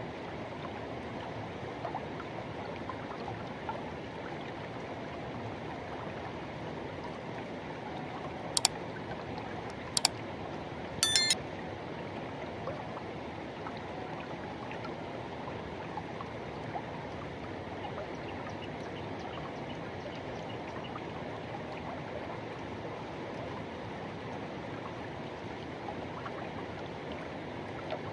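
Forest river water rushing steadily. A few sharp clicks break in briefly about a third of the way through, the last with a short high pitched squeak.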